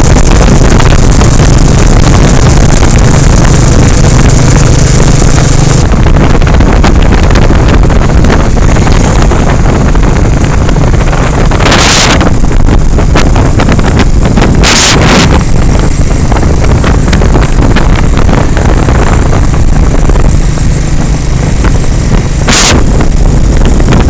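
Royal Enfield Bullet 350's single-cylinder engine running at highway speed, nearly buried under heavy wind noise on the phone's microphone. Short, louder gusts of noise cut across it about halfway through, again a few seconds later, and near the end.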